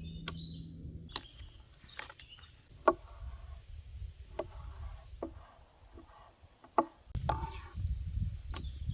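Chopping on wood: about eight irregular sharp knocks, some with a short ring, with a low rumble from about seven seconds in.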